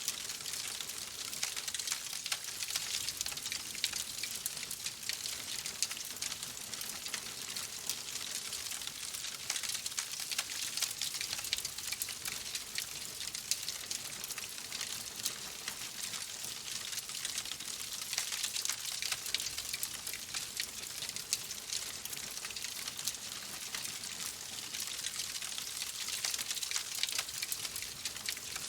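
Wood fire crackling in a fireplace: a steady hiss with many small, sharp pops and snaps scattered throughout.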